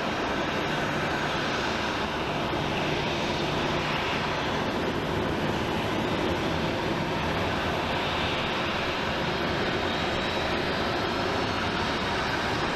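Jet airliner's engines at takeoff power during the takeoff roll, a steady, even rush of jet noise.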